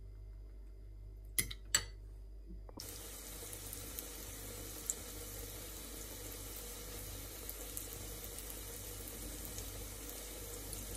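Two short clicks about a second and a half in, then, from about three seconds in, a steady sizzle with scattered small crackles from breadcrumb-coated eggplant slices frying in hot sunflower oil in a pan.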